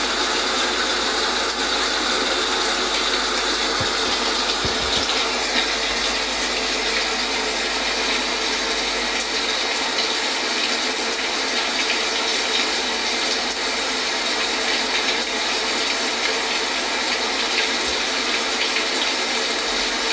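Steady rain falling, an even hiss of water that doesn't change.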